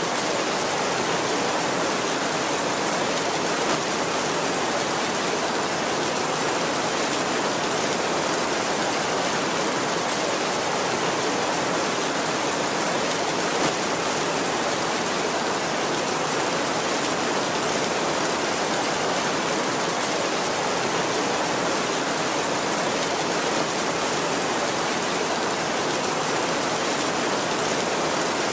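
Heavy rain falling steadily on a tin roof, an even hiss with no rumble of thunder.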